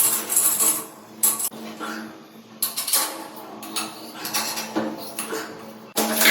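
Metal parts and tools clinking and scraping, with sharp clicks about a second in, midway and near the end, over a steady low hum.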